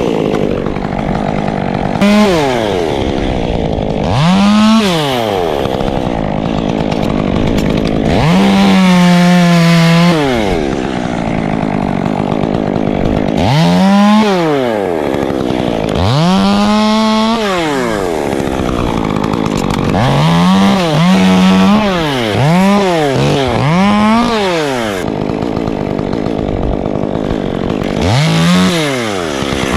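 Two-stroke chainsaw revving up to full speed and dropping back to idle again and again. It sometimes holds at full speed for a second or two, and it gives a run of quick throttle blips a little past the middle.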